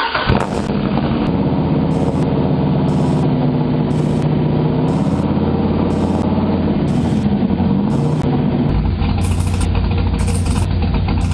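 Cammed LS V8 engine of a 2007 Corvette running at idle with a choppy beat just after starting, its revs rising and falling slightly about six to eight seconds in.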